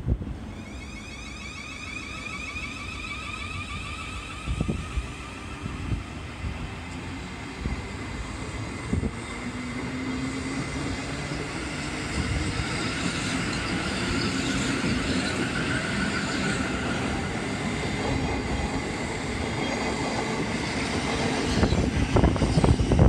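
Electric multiple unit train running along the platform, its motor whine rising in pitch as it picks up speed, over the rumble of wheels on the rails with an occasional knock. It grows louder as the train comes close near the end.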